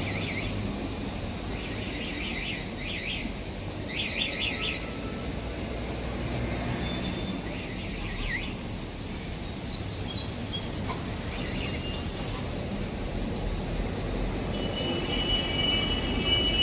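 Birds chirping in quick groups of notes over a steady low rumble, with a few steady high tones starting near the end.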